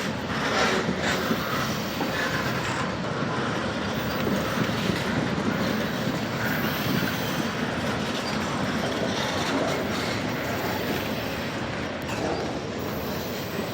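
Freight cars of a Norfolk Southern train rolling past at a slow crawl: a steady noise of steel wheels on the rails.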